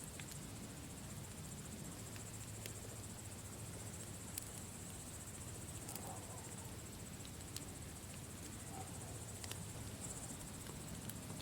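Campfire burning, with a scatter of sharp single crackles every second or two over a soft steady hiss, and crickets chirping steadily and high-pitched behind it.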